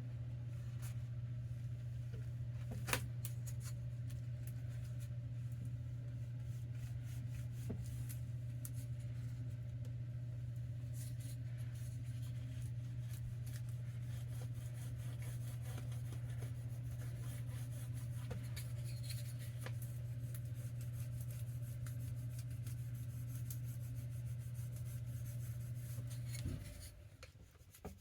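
A steady low hum, like a small electric appliance or motor running, that cuts off suddenly about a second and a half before the end. Light rustling and taps from handling tape and paper run through it, with one sharper tick about three seconds in.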